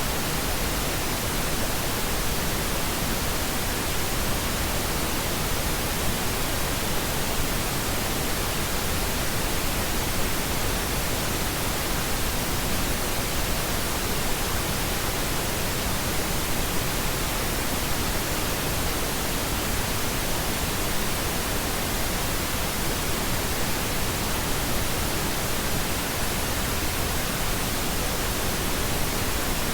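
Steady pink noise: an even, unchanging hiss across all pitches, with no events or changes.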